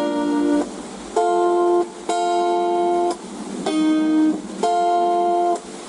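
Acoustic guitar strumming about five chords. Each chord rings for half a second to a second and is then cut short.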